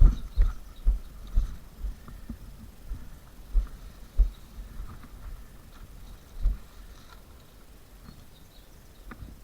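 Footsteps heard as low thuds, quick at first, then slowing and thinning out to a few scattered steps over faint background hiss.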